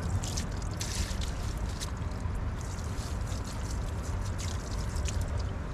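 Water pouring and splashing over a dog being washed, in irregular spurts over a steady low rumble.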